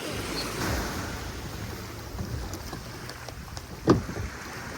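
Wind buffeting the microphone over sea surf, with one short thump about four seconds in.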